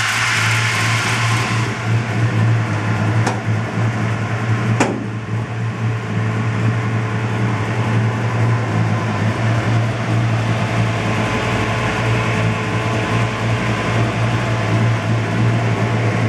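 1956 Chevrolet Bel Air's engine idling with a steady low hum. It is hissier for the first second or two, while close over the engine bay. Two sharp clicks come about a second and a half apart.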